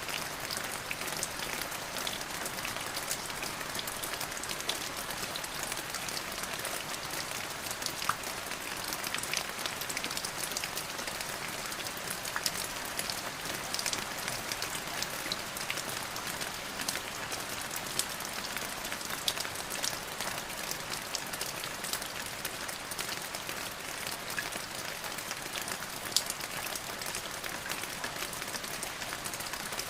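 Steady rain falling, with a constant hiss and many fine individual drop patters on a surface.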